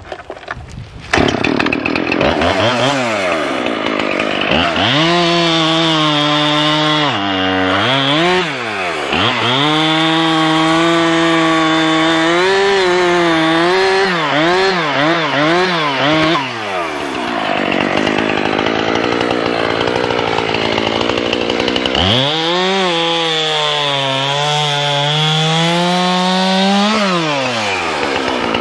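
Two-stroke chainsaw starts suddenly about a second in and runs with its throttle blipped up and down, then held high while bucking a log. Around two-thirds of the way through, its pitch gives way to rough noise while in the cut, and then the revving rises and falls again.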